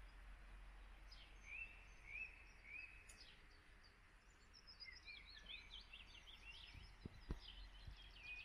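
Faint birdsong: a few repeated rising chirps, then a quick run of up-and-down notes from about five seconds in. Two low thumps about seven seconds in.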